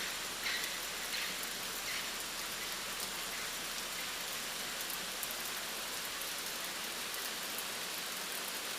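Steady rainfall on rainforest foliage, an even hiss with a few louder drops in the first seconds.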